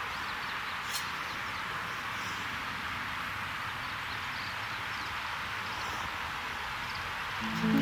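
A steady outdoor rushing noise with a single sharp click about a second in. Soft background music comes in at the very end.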